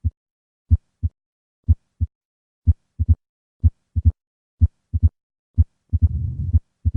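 Heart sounds at about one beat a second, heard through a stethoscope: first and second heart sounds, with an extra click after the second sound from about 3 s in (the opening snap). From about 6 s a low rumbling murmur fills the gaps between beats, the diastolic murmur of mitral stenosis, in a heart with combined mitral stenosis and mitral regurgitation.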